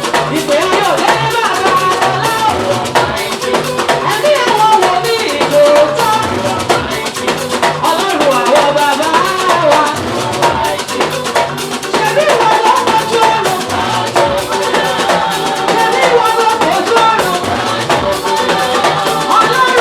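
Live gospel praise band playing, with drum kit and a shaker keeping a steady beat under melodic instruments.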